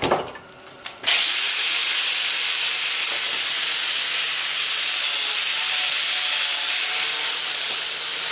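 A high-speed electric power tool switched on about a second in, its motor winding up quickly to a steady high whine over a loud hiss and running on steadily.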